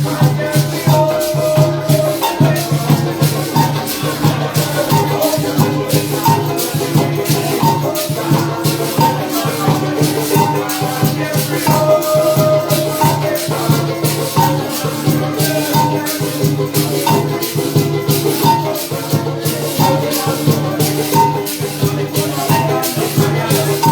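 Live parang band music playing an instrumental passage: a fast, steady shaker rhythm over bass and melody.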